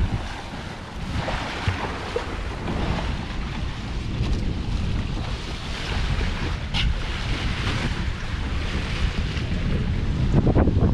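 Wind buffeting the microphone over the rush of water along a sailboat's hull under sail, the wash swelling and easing.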